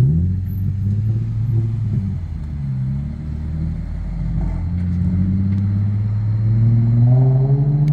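Nissan 350Z's VQ35 V6 exhaust, a low steady rumble at moderate revs, with the revs climbing over the last couple of seconds.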